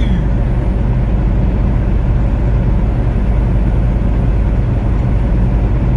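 Steady engine and road noise of a vehicle driving at speed, heard from inside its cab, a constant low rumble with an even hiss.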